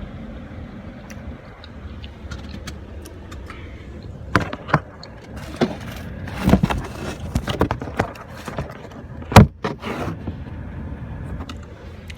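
A person eating pizza: chewing and mouth noises close to the microphone, with sharp clicks and knocks from about four seconds in, the loudest a single knock near the end, over a steady low rumble.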